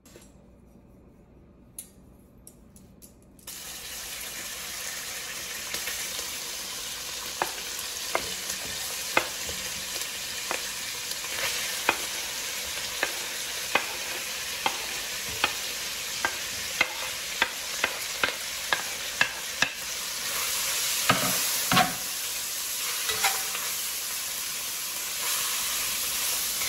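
Sliced bacon and diced onion sizzling in melted butter in a cast iron pot, the sizzle starting suddenly a few seconds in as the food goes into the hot fat. A steady run of sharp taps from a knife scraping and pushing onion off a wooden cutting board into the pot, with a few louder knocks near the end.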